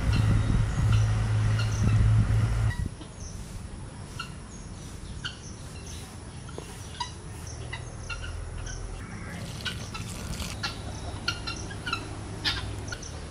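A loud steady low hum that cuts off suddenly a few seconds in, then birds chirping in many short, scattered calls.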